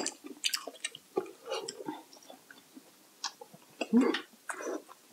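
Close-miked chewing: a person eating with open, wet mouth sounds and small irregular clicks, one louder about four seconds in.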